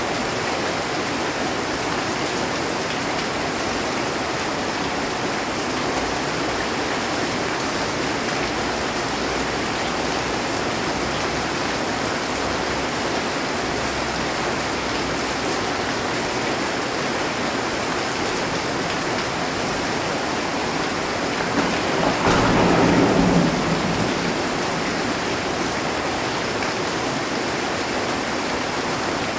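Heavy rain drumming steadily on a metal roof. About three-quarters of the way through, a thunderclap rumbles for about two seconds.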